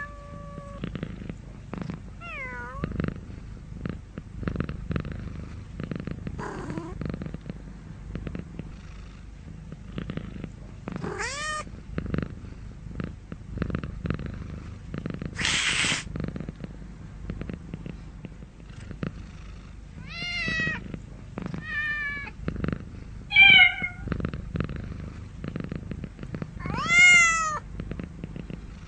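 Domestic cat purring steadily, broken by about six short meows, the two loudest near the end. A brief noisy burst comes about halfway through.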